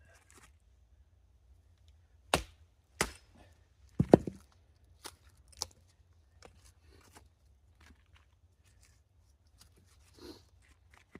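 Axe strikes splitting dry, partly frozen softwood: three loud sharp chops between about two and four seconds in, the last one doubled, then two lighter knocks and faint clicks of wood pieces.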